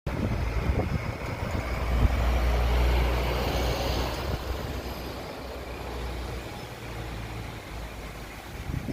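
Strong cyclone wind buffeting the microphone, a heavy low rumble over a rushing hiss, swelling about two to four seconds in and then easing off.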